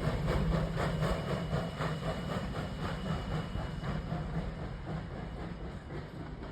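Virginia & Truckee engine 29, a 1916 Baldwin 2-8-0 steam locomotive, running with a quick regular beat of about three to four a second, growing steadily fainter.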